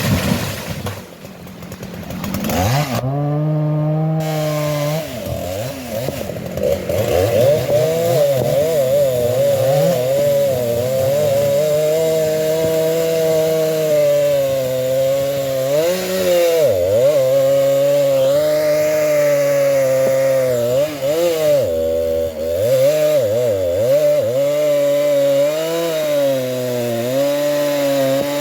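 Large Husqvarna two-stroke chainsaw revving up about three seconds in and then running at high revs while cutting into a sengon trunk, its pitch dipping briefly under load a few times.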